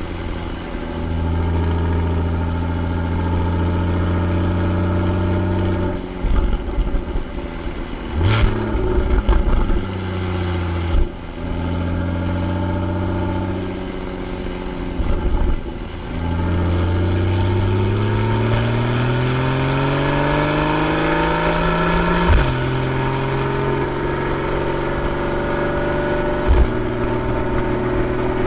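Porsche 981 Boxster 2.7 flat-six exhaust while driving: steady cruising stretches broken by brief lifts off the throttle, then a long pull with the engine note rising for about six seconds before an upshift drops the pitch. A few sharp pops sound between.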